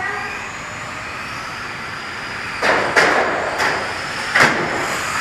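Radio-controlled race cars running, their electric motors giving a faint high whine that rises and falls. From a bit past halfway come four sharp knocks or clatters, like cars hitting the track boards or each other.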